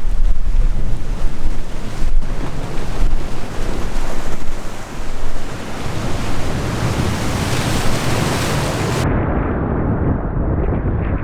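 Sea waves washing in, with wind buffeting the microphone in low, gusty rumbles. A surge of water hiss builds in the second half, and the upper hiss cuts off abruptly about nine seconds in.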